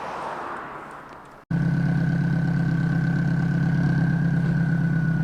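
A vehicle passes, its noise swelling and fading; then, after a sudden cut, a car engine idles loudly and steadily with a faint high whine above it.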